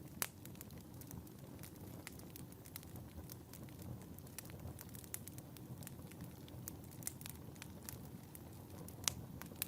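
Wood fire burning in a fireplace: a low steady rumble of flames with irregular crackles and pops, the sharpest pops about a quarter of a second in and just after nine seconds.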